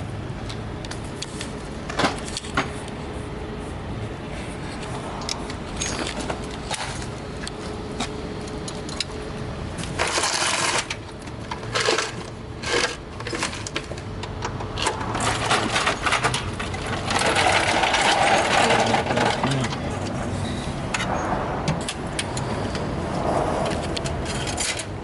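Metal hand tools and parts clinking, knocking and rattling during work on a car's engine bay, with scattered sharp clicks and two longer stretches of rattling, over a steady low hum.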